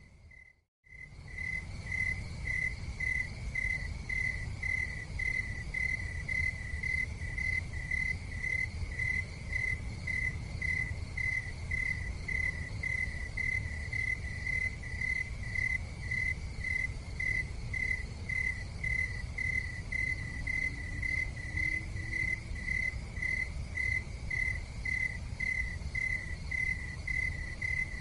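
Insect chirping in a steady, even rhythm of about two chirps a second, over a low rumbling hiss. The whole sound cuts out for under a second right at the start, then resumes.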